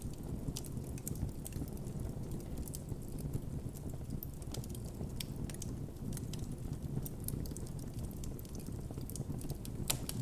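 Wood campfire burning with a steady low rumble of flames and frequent irregular crackles and pops, one sharper pop near the end.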